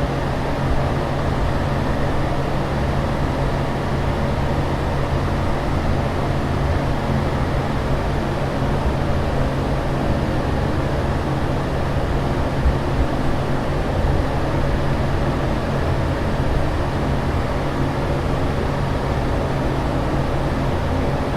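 Steady aircraft cabin noise in flight: an even, unchanging rushing drone, heaviest in the low end, with a constant low hum underneath.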